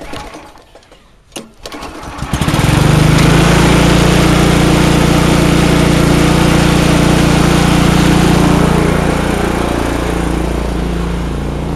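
Tecumseh 9 hp snowblower engine on a garden tractor, started cold on choke. It catches about two seconds in, after a knock, and runs loud and steady through a straight pipe with a small muffler, easing a little lower near the end.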